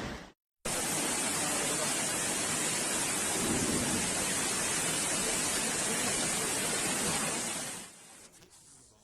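Heavy rain pouring down: a steady, even hiss that starts abruptly just after a brief break and falls away about eight seconds in.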